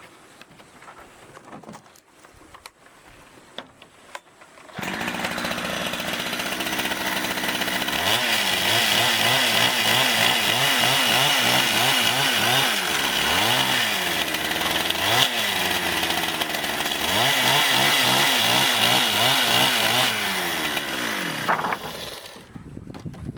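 Chainsaw starts suddenly about five seconds in and runs for about seventeen seconds, its engine speed rising and falling again and again as it cuts wood, then stops shortly before the end. A few faint taps come before it.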